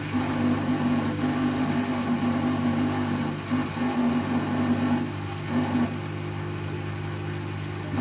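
Servis M3008B washing machine on its 500 rpm intermediate spin: a steady hum of the motor and turning drum, with a higher motor whine that cuts in and out. It goes quieter about five seconds in.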